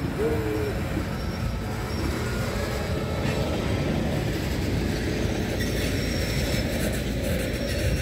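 Freight train rolling past on the rails: a steady low rumble of rail cars, with a short wheel squeal right at the start.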